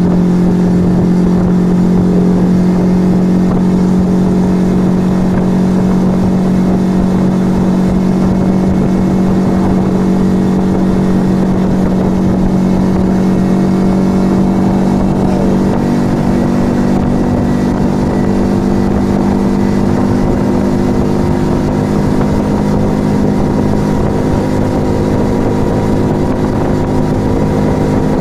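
Yamaha XV125 Virago's small air-cooled V-twin running at steady cruising revs through a Turbo Kit aftermarket exhaust. Its tone shifts up a little past the middle.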